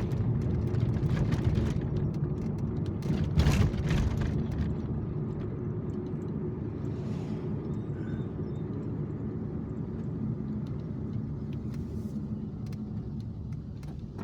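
Car interior road noise, a steady low rumble of the vehicle rolling along. In the first few seconds come several knocks and jolts as it goes over bumps, the loudest about three and a half seconds in, then a smoother, quieter ride.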